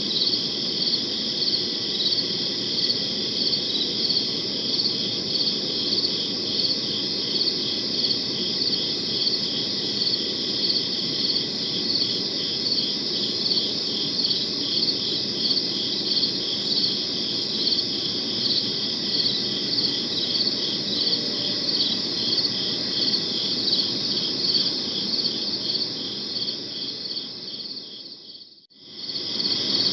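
Crickets chirping in a steady, even pulse, several chirps a second, over a low steady background noise. Near the end the whole sound fades out briefly and fades back in.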